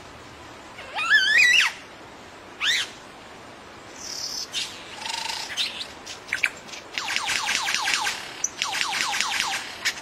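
Bird calls: a harsh wavering squawk about a second in, a short rising call, then scratchy notes and, near the end, two quick runs of about seven repeated notes a second.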